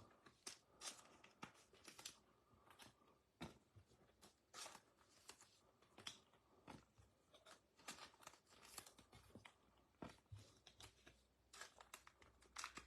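Faint, scattered clicks and crinkles of trading cards and packaging being handled.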